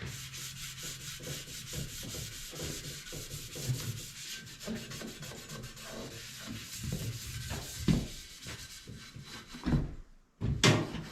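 Hand sanding of the painted steel tailgate, scuffing off the shine before it gets bedliner, in quick back-and-forth strokes of about two to three a second. Near the end there is a brief pause and a couple of louder knocks.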